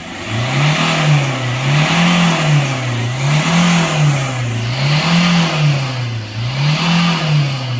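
Vehicle engine, freshly decarbonised, being revved up and down repeatedly by the accelerator, about once every second and a half.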